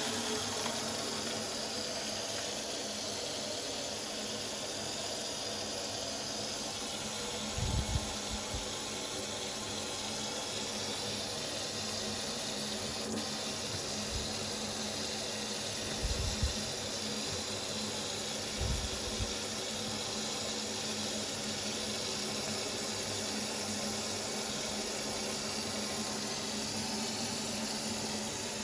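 Water running steadily from a TOTO single-lever kitchen mixer tap into the sink, with a few short low thumps along the way.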